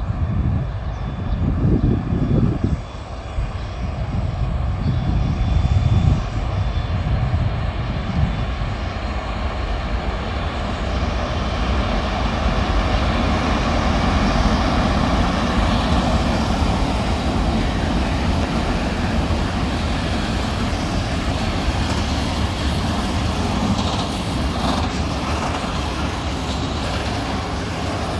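Train passing through the station: a steady rushing run noise with heavy low rumbling gusts in the first few seconds, growing fuller and brighter about halfway through.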